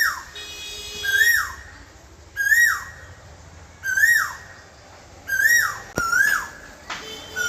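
Asian koel calling: a clear whistled note, each one rising slightly and then falling steeply, repeated about every second and a half, with two calls close together near the end.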